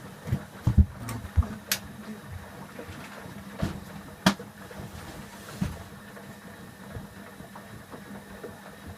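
Candy Aquamatic 1000T compact washing machine running an empty descaling wash: a steady motor hum with irregular clunks and clicks, the loudest in the first second and a half and about four seconds in.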